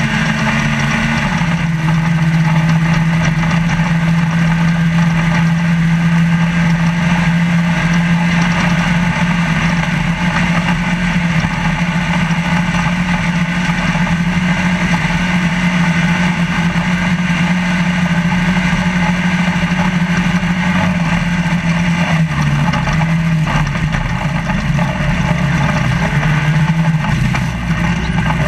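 Trophy Lite off-road race truck's engine running hard at steady high revs, heard from inside the cab over a constant rush of noise. The engine pitch steps down about a second in and wavers about three-quarters of the way through.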